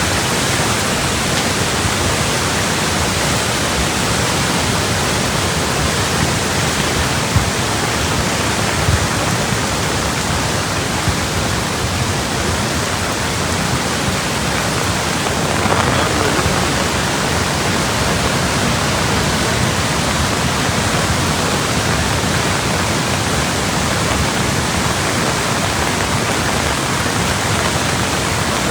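Loud, steady rush of monsoon floodwater.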